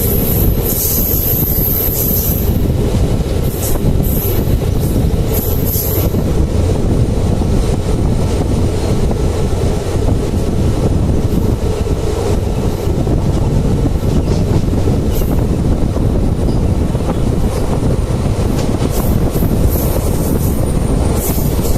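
Kannur–Alappuzha Express passenger train running on the line, a steady heavy rumble from the wheels on the rails. A high-pitched wheel squeal comes and goes in the first few seconds and returns near the end.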